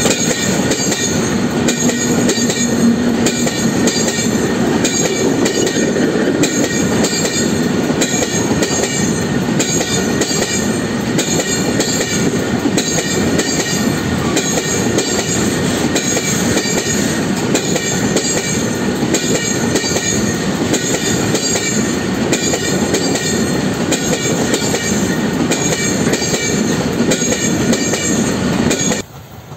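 A freight train's tank wagons rolling past close by, their steel wheels clattering over the rail joints in a steady repeating rhythm. The sound cuts off abruptly near the end.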